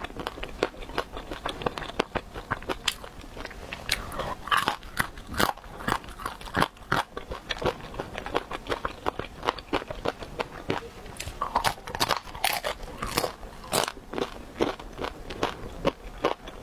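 Close-miked chewing of crispy air-fried dumplings: a dense, uneven run of small crunches and crackles as the fried wrappers break between the teeth.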